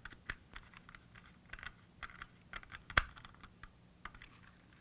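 Faint, irregular small clicks and taps of a screwdriver driving a small screw into a plastic toy housing, with one sharper click about three seconds in.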